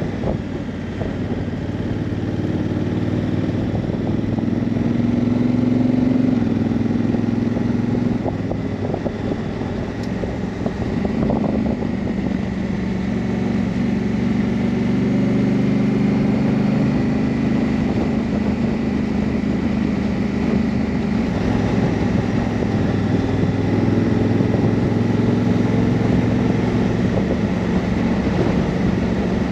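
Honda CRF1000L Africa Twin's parallel-twin engine running under way, with wind noise, its note rising and dropping a few times with throttle and gear changes.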